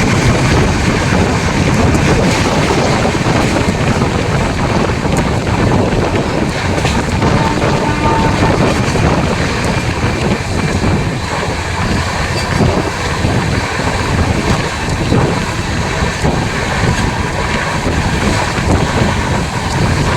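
Fast-moving train's steady rumble and rush, with heavy wind buffeting the microphone.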